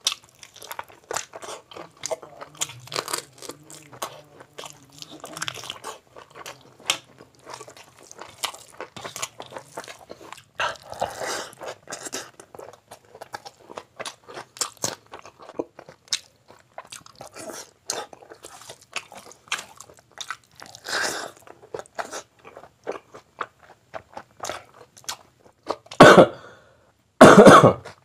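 Close-up eating sounds: biting, chewing and crunching into a chicken leg piece with biryani, with many small mouth clicks throughout. Two loud, short bursts about a second apart near the end.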